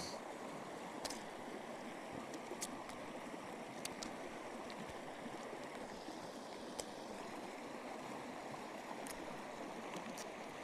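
Steady rushing of running water, like a small stream, with a handful of faint scattered clicks over it.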